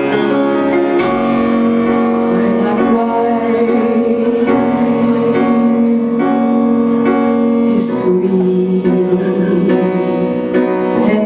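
Live music: a voice holding long, wavering notes over piano accompaniment.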